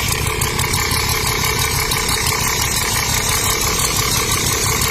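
Mini tractor's small engine running steadily at idle, with an even chugging.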